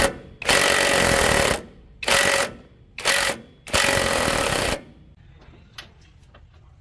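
A power tool with a steady whine runs in short bursts, stopping briefly between them, and stops for good about five seconds in. Faint clicks and taps follow.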